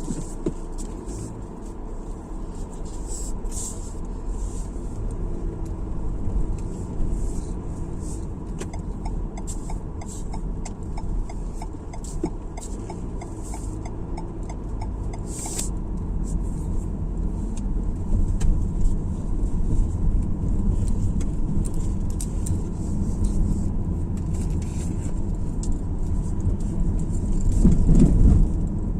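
A car driving on the road: a steady low rumble of road and engine noise. A regular light ticking, about two a second, runs for several seconds in the middle, and the rumble swells briefly near the end.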